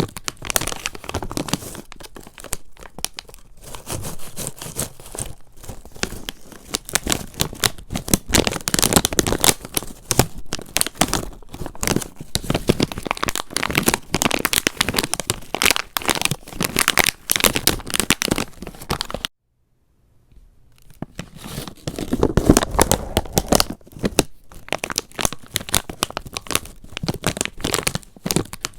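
Close-up crinkling and crackling from something being handled and crumpled, in dense rapid clicks. It stops dead for about a second and a half about two-thirds of the way through, then starts again.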